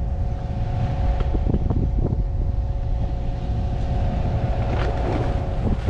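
Wind buffeting the microphone over the steady hum of a sportfishing boat's machinery, with a few faint knocks.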